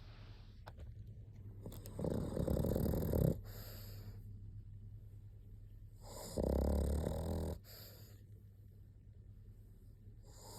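Pug snoring: two loud, rattling snores about four seconds apart, each lasting over a second, with quieter breathing between them.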